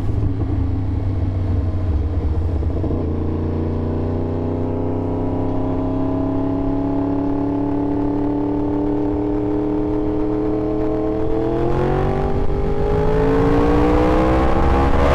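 Yamaha R1 sportbike's inline-four engine pulling under load. Its note rises slowly and then climbs faster over the last few seconds as the bike accelerates.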